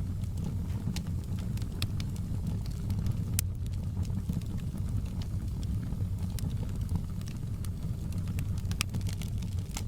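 Campfire crackling: scattered sharp pops and snaps over a steady low rumble of burning, with louder pops about three and a half seconds in and near the end.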